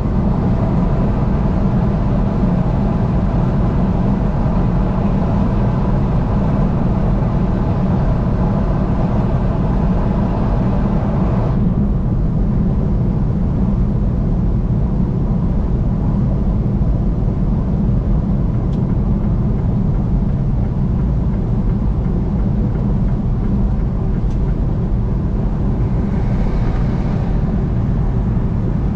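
Steady road noise of a vehicle driving on the highway: a constant low rumble of tyres and engine. About twelve seconds in, the higher hiss drops away suddenly while the rumble carries on.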